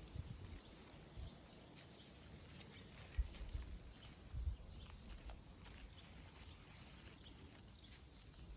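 Faint outdoor ambience: scattered small high bird chirps, with low rumbling thumps of wind on the microphone, strongest about three and four and a half seconds in.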